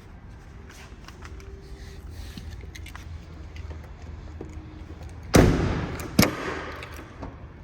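Two loud knocks about a second apart, the first with a short ringing tail, over a low steady hum: something in the pickup's cab being shut.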